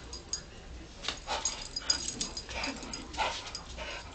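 Pit bull letting out a string of short, excited whimpers and yips, about one a second, while chasing a laser dot.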